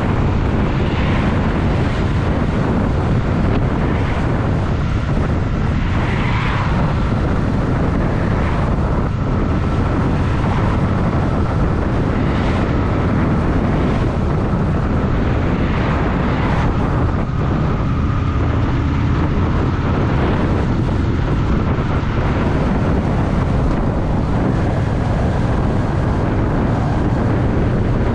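Honda Shadow VT750's V-twin engine running at a steady pace under way, its exhaust drone even throughout.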